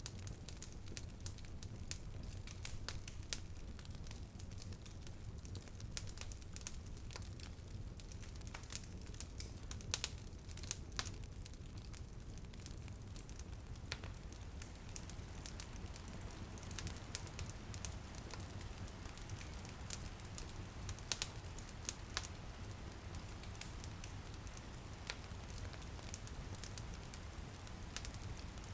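Wood fire crackling and popping with scattered sharp snaps, over a steady low rumble of the flames, with light rain pattering on a window.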